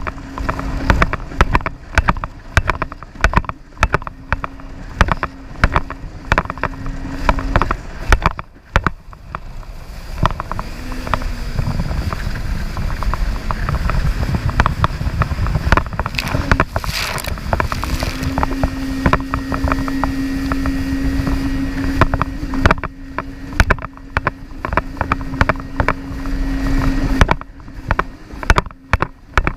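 Jet ski engine running with a steady hum, which evens out and grows louder from about ten seconds in until near the end. In the first third and the last few seconds, many short sharp knocks or gusts break over it.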